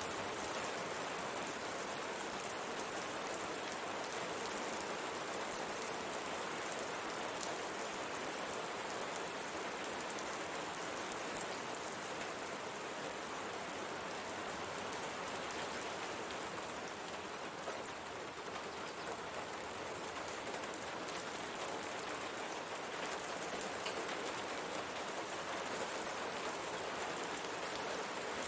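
Steady rain falling, with a dense patter of drops striking window glass.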